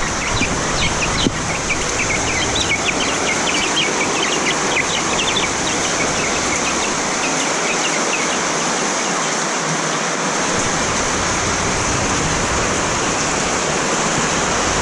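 Heavy rain pouring down steadily. A flurry of quick high chirps runs through the first half.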